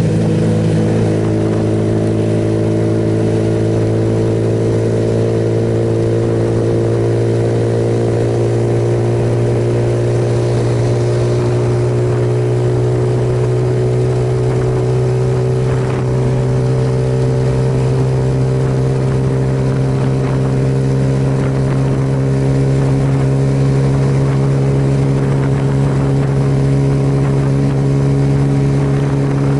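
Suzuki Yes single-cylinder motorcycle engine running at a steady cruising speed, its note drifting slowly down and back up, over a steady hiss of wind and road noise.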